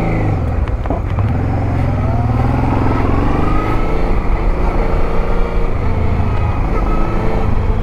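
Honda Transalp 650's V-twin engine running under way, its pitch rising about two seconds in and then holding steady.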